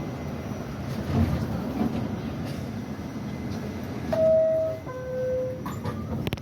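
R68 subway train rumbling steadily. About four seconds in, a two-tone descending chime sounds, high note then low, followed by a few sharp clicks.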